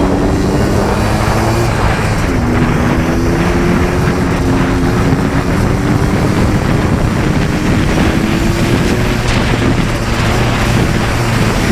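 ATV engine running under way, its pitch shifting a little as the throttle changes, with wind noise buffeting the microphone.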